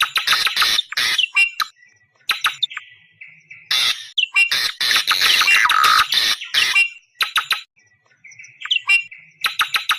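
Awar-awar bird lure call: bouts of harsh, screaming chatter in rapid pulses, broken by short pauses with thin whistled notes.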